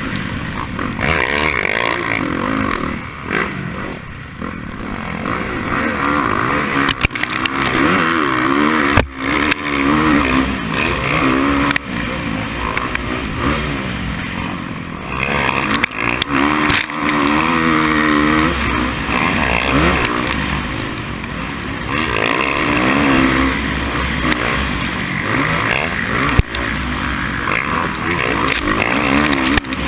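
Race motorcycle engine running under hard riding, its pitch climbing and dropping again and again as the throttle is worked, over a steady rushing hiss, with a few sharp knocks.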